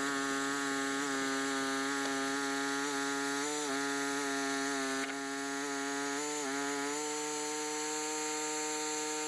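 Portable sawmill running steadily under load as it saws boards from a maple log. Its pitched tone wavers briefly twice, then steps slightly higher about seven seconds in.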